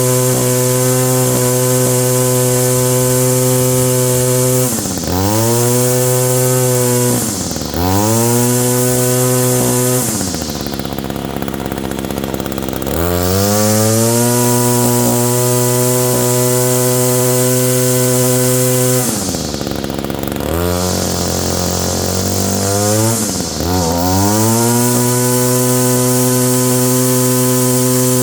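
Echo GT225 two-stroke string trimmer engine held at full throttle and let back down toward idle several times, its pitch dropping and climbing again each time. Freshly fitted with a new air filter and spark plug, it holds high revs well but runs a little unevenly at low speed, which the owner suspects is a slightly dirty carburetor.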